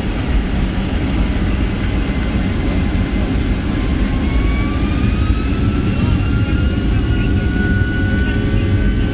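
Boeing 757-200's twin jet engines heard inside the passenger cabin: a heavy steady rumble with an engine whine that rises in pitch from about four seconds in and levels off near the end, as the engines spool up for takeoff.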